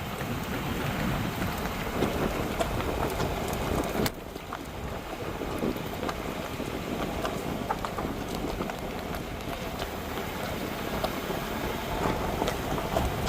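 Road noise inside the cab of a Ford Super Duty pickup driving a forest road: a steady rumble of tyres and wind with scattered small rattles and clicks. A sharp click about four seconds in, after which it runs a little quieter.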